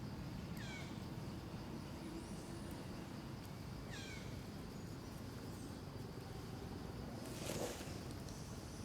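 Outdoor ambience with a steady low rumble, over which a bird gives a high call that drops steeply in pitch, twice, about three and a half seconds apart. A brief harsh noisy burst comes about seven and a half seconds in.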